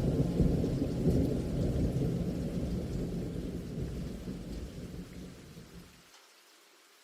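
Heavy rain with low rumbling thunder, fading steadily and cutting off about six seconds in to near silence.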